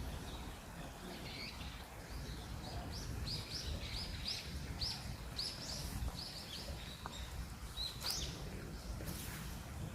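A small bird chirping: a rapid run of short, high calls, about two or three a second through the middle, over a low background rumble.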